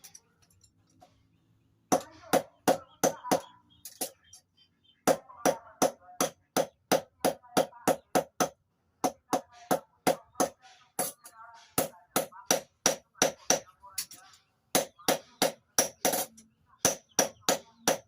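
Steady hammer blows on a blade being forged on an anvil, about three strikes a second, in runs of several seconds with short pauses between them.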